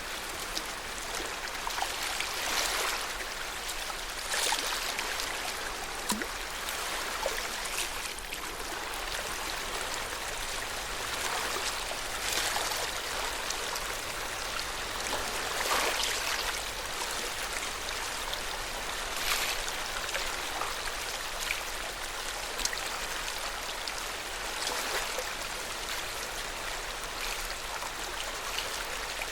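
Lake water lapping: a steady wash with small splashes swelling up irregularly every one to three seconds.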